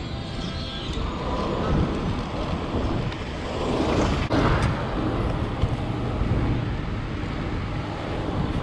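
Wind rumbling on the microphone of a moving bike-ride POV camera, over road and traffic noise. A louder whoosh swells and fades about four seconds in.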